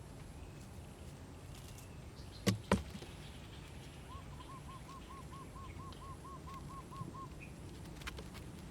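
A bird calling, a run of about a dozen short identical notes at roughly four a second, over a steady low background noise. Two sharp knocks close together come a little before the call and are the loudest sounds.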